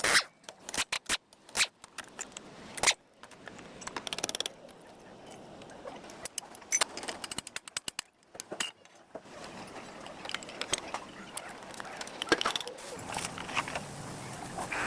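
Metal hand tools and car parts clinking, clicking and scraping in a run of sharp, irregular knocks during a front axle repair. A steady hiss grows louder under the clicks near the end.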